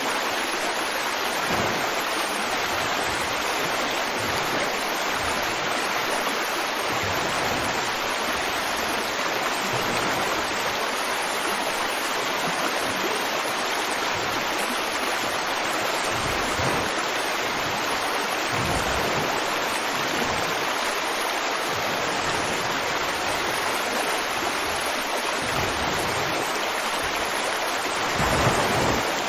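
River water flowing steadily over rocks, an even rushing babble with occasional low surges and a slightly louder swell near the end.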